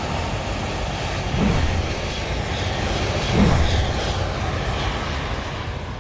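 Aircraft engine noise: a steady rush with two brief falling tones about two seconds apart.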